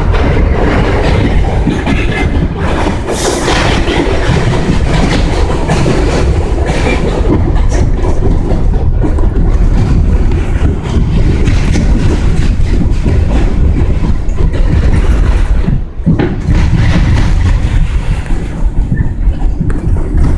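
New York City subway train heard from inside the car while running: a loud, steady rumble with the wheels clattering over the rail joints, and a brief hiss about three seconds in.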